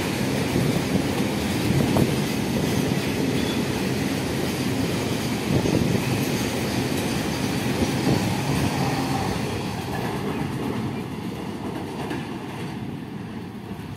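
Container freight train's loaded flat wagons rolling past on the track alongside, a steady rolling rail noise with a few knocks of the wheels. It fades over the last few seconds as the train draws away.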